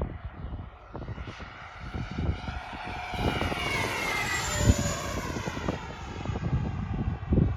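Electric ducted-fan motor of an FMS BAE Hawk model jet whining as it flies past, its pitch rising and then dropping about four to five seconds in. Wind buffets the microphone throughout.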